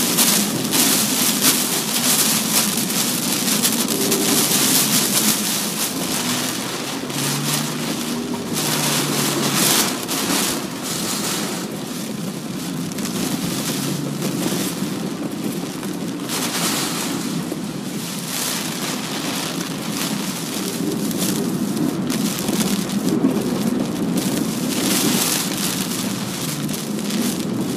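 Heavy typhoon rain and wind lashing a moving car, the downpour swelling and easing in gusts every few seconds, with low road and engine noise underneath.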